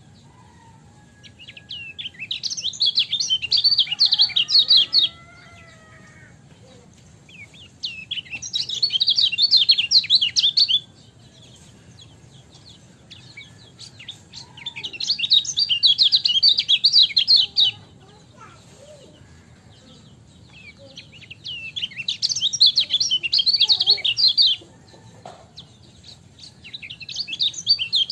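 Kecial kuning (white-eye) singing a rapid, high chattering song in bouts about three seconds long, repeated every six to seven seconds, five times, with faint calls of other birds in between.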